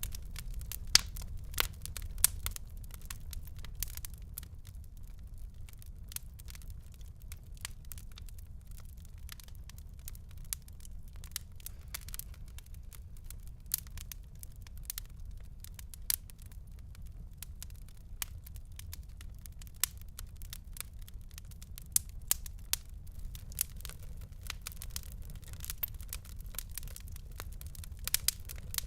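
Wood fire crackling in a fireplace: irregular sharp pops and snaps, a few louder ones standing out, over a steady low rumble of burning.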